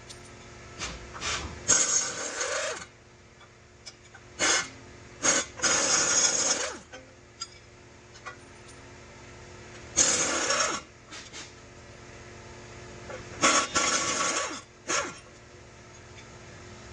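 An air-powered shop tool run in four short bursts of about a second each, each ending in a falling spin-down, with light clicks and knocks of metal parts between the bursts.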